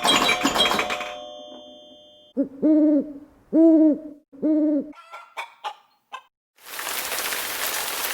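An owl hooting four times, each hoot rising and falling in pitch, after ringing chime-like tones fade out. A few short high chirps follow, then a steady hiss-like noise comes in near the end.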